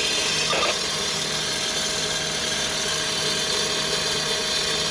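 Steady mechanical drone with a constant hum, typical of fire apparatus engines running on the fireground, with a short click about half a second in.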